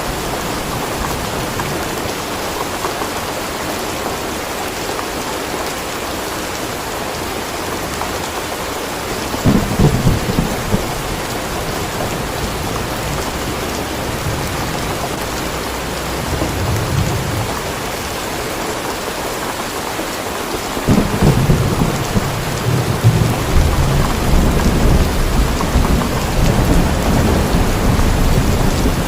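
Steady rain with rolling thunder. A short rumble comes about a third of the way in and a weaker one around the middle. Longer, heavier rumbling builds about two-thirds through and keeps going.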